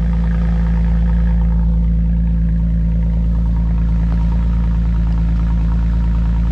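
Lexus IS350's 3.5-litre V6 idling steadily through an F Sport exhaust with the resonator deleted, a deep, even exhaust note that is not quiet but not loud.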